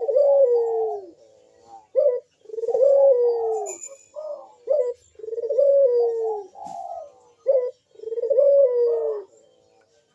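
A puter dove (domestic Barbary/ringneck dove) cooing in its repeated 'manggung' song: four phrases, each a short sharp note followed by a long falling coo, about one every two and a half seconds. This is the eager, in-breeding-condition song used as a lure to set other puter doves calling.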